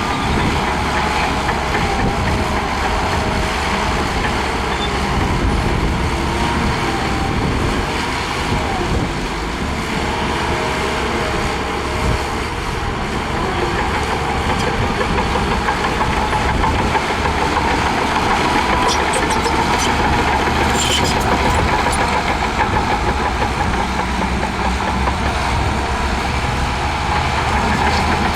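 Diesel engine of a Shantui DH17C2 bulldozer running steadily while pushing sand, with a steady high whine over the engine. A few faint clicks come about two-thirds of the way through.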